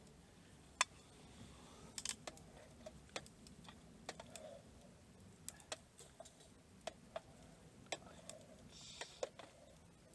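Scattered sharp clicks and light knocks at an irregular pace, with a brief rustle about nine seconds in.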